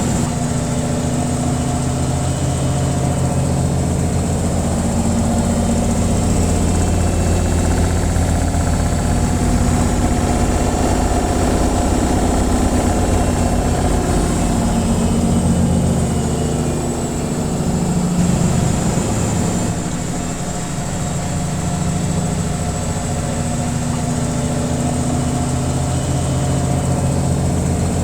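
Washing machine on its spin cycle: a steady low motor-and-drum hum with a faint high whine, easing briefly about twenty seconds in before picking up again.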